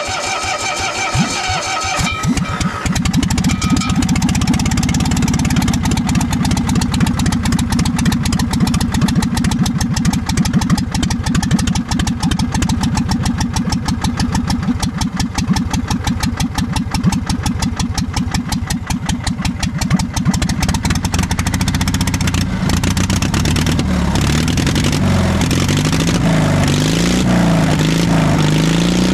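Carbureted engine cold-started on a freezing day: the starter cranks for about two seconds, then the engine catches and runs at a rough cold idle. In the last several seconds the idle speed wavers up and down.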